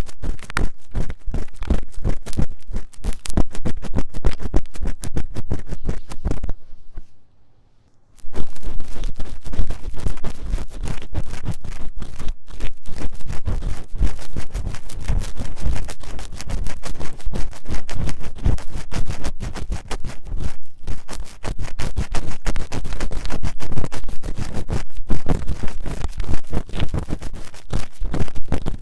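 An ear-cleaning tool scratching fast and vigorously inside the ear of a 3Dio binaural microphone: dense, rapid scraping strokes. They stop for about a second and a half some seven seconds in, then resume.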